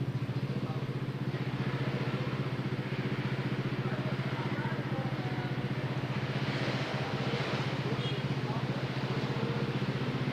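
Motorcycle engine running at steady, even revs during a ride, with a rapid regular pulse and no revving. Wind noise leaking onto the microphone rises and falls over it.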